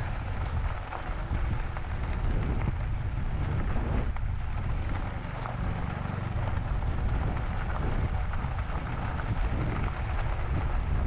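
Wind rushing over the microphone of a moving e-bike, a steady low rumble and hiss.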